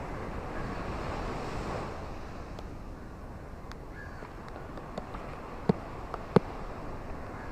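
Ocean surf washing on a shore, a wave swelling in the first couple of seconds and then easing. A few sharp clicks sound in the second half, the loudest two close together about six seconds in.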